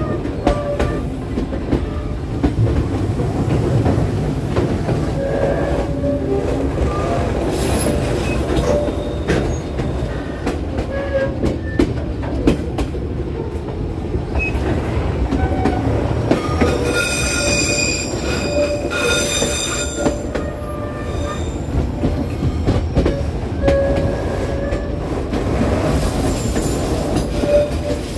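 Railway passenger train running, with a steady low rumble of the wheels and intermittent wheel flange squeal from taking tight mountain curves; the squeal comes and goes, with the highest, strongest shriek about two-thirds of the way through.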